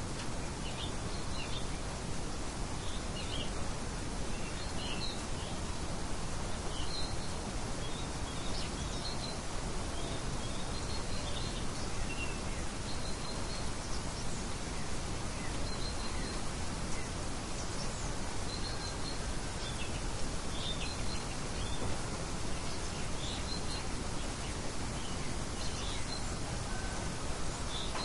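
Small birds chirping, short high chirps coming every second or two, over a steady even hiss of outdoor background noise.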